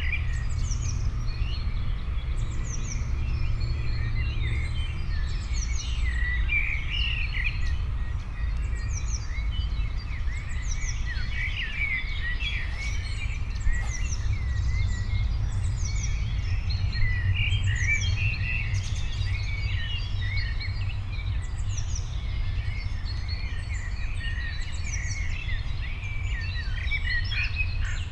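Several small birds chirping and singing at once, one repeating a high, falling note about once a second, over a steady low rumble.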